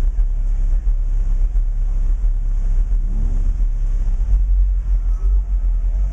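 Two FI Audio Team 15-inch car subwoofers playing deep bass loudly: a steady rumble with nearly all of the sound below about 100 Hz.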